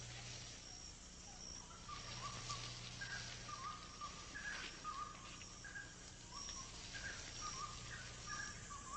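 Faint rainforest ambience: short whistled bird calls repeating every second or so, with a high thin insect tone coming and going over a soft hiss.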